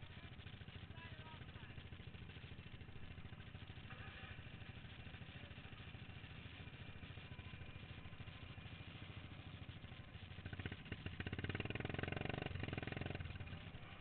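Modified racing lawn mower engine running hard at race speed, a fast steady buzz of firing pulses that swells louder for about three seconds near the end.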